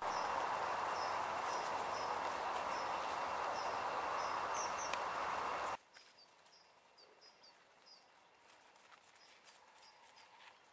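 A steady rushing noise starts abruptly and cuts off suddenly about six seconds in, while a small bird chirps repeatedly with short high notes throughout. After the cut, faint rustling and ticks from leaves underfoot remain under the birdsong.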